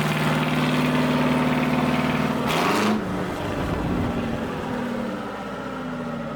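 Old tractor engine idling steadily. About two and a half seconds in there is a short hissing burst, and after it the engine note is lower and fades off.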